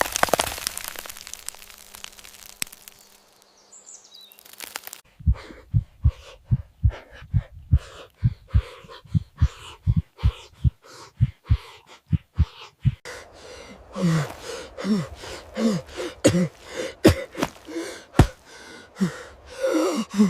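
Crackling at first that dies away. Then a quick, steady run of low thuds, about three a second. In the last few seconds short gasps that fall in pitch join the thuds.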